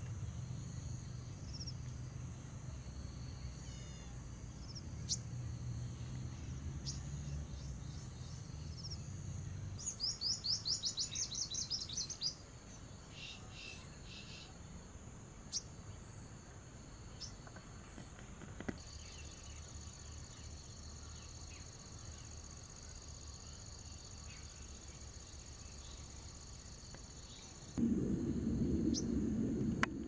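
Small birds chirping: scattered single high chirps, and about ten seconds in a rapid trill of some fifteen high notes lasting about two seconds. A louder low rumble comes in near the end.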